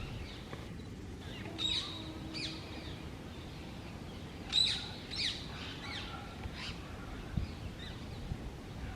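Rose-ringed (Indian ringneck) parakeets calling: two short, sharp, downward-sweeping calls about a second and a half in, then a louder run of about five near the middle, over steady low background noise.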